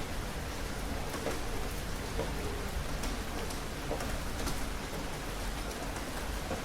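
Steady rain falling and pattering on a surface, with scattered individual drops ticking through the hiss.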